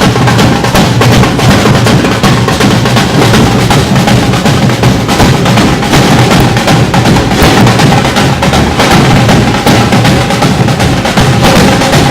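Samba percussion band playing loud, dense drumming without a break.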